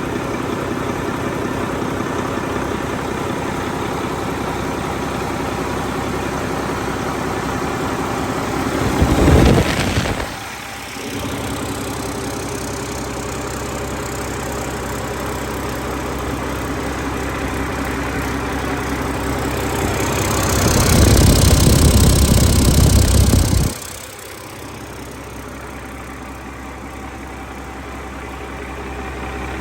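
Mack MP7 10.8-litre six-cylinder diesel engine on a test run, idling steadily. It is revved briefly about a third of the way in, then revved again for about three seconds in the second half before dropping sharply back to idle.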